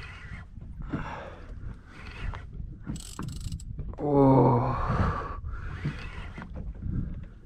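A man breathing hard in short heavy breaths while fighting a fish on rod and reel, then a loud drawn-out "oh" falling in pitch about four seconds in, over a steady low rumble of wind and the boat.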